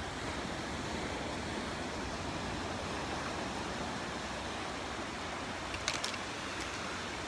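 Surf washing ashore in a steady, even wash of noise. A few brief clicks come about six seconds in.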